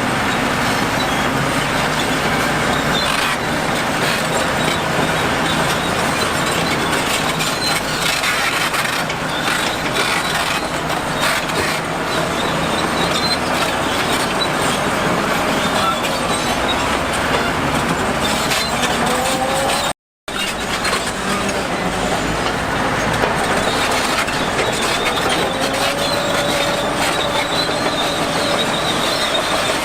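Bulldozer working, its diesel engine running under a steady clatter of steel tracks, with drawn-out squeals from the track running gear twice in the second half. The sound cuts out for a moment about two-thirds of the way through.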